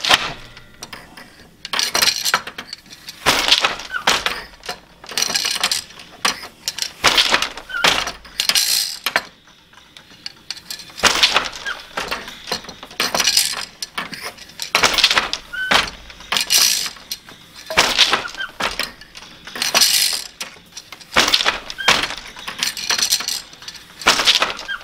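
Louet Spring floor loom being woven on: the beater knocks the weft into the cloth and the shafts and heddles clatter as the shed changes, a repeating clack with light clinks about every second.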